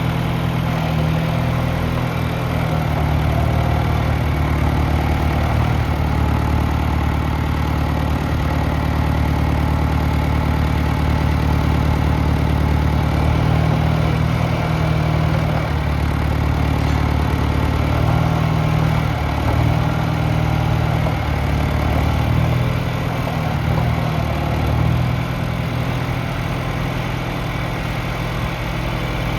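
John Deere 2510 tractor's gasoline engine idling steadily, its low running note shifting a little partway through.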